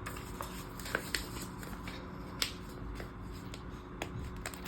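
A few light, sharp clicks and taps, scattered and irregular, from hands handling paper stickers and a clip.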